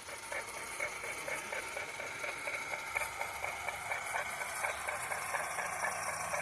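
A small machine running steadily, with a rapid, even ticking rhythm over a steady high whine.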